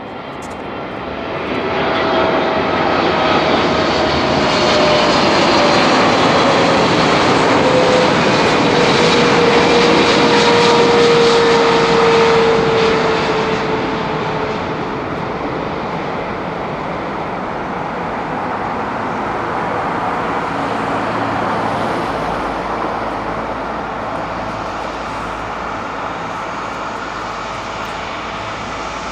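Boeing 777-300ER's GE90 turbofan engines as the airliner passes on landing. The jet noise builds to a peak about ten seconds in, with a whining tone sliding down in pitch as it goes by, then settles to a steadier, lower sound as it moves away down the runway.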